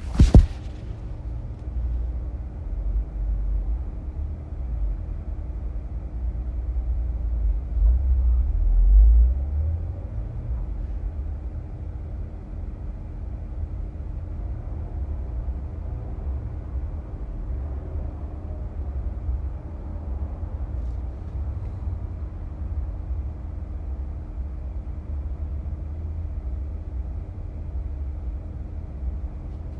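Low, steady cabin rumble of a 2018 Honda Accord Hybrid on the move, heard from the driver's floor, with a faint steady hum over it. A sharp knock comes right at the start, and the rumble grows louder for a couple of seconds around eight seconds in.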